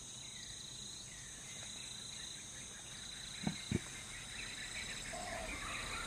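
Steady high insect chirring of a natural ambience, with faint bird-like chirps in the second half and two short soft knocks about three and a half seconds in.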